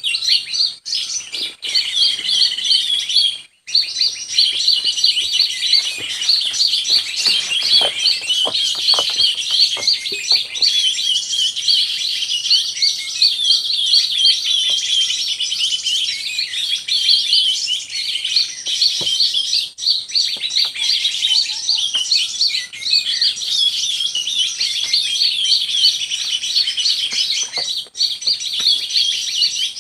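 Birds chirping in a dense, rapid, unbroken twitter that breaks off for a moment about three and a half seconds in, with a few faint clicks behind it.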